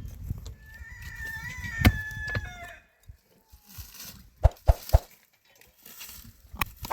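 Rooster crowing once, a single long call of about two seconds that drops in pitch at the end. A little later come three sharp knocks in quick succession.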